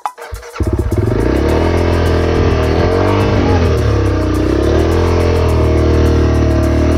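Off-road dirt bike engine revving under load, its pitch rising and falling. It comes in suddenly about half a second in.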